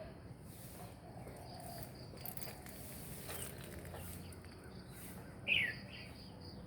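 Outdoor ambience with a faint steady low hum, and one short bird chirp falling in pitch about five and a half seconds in.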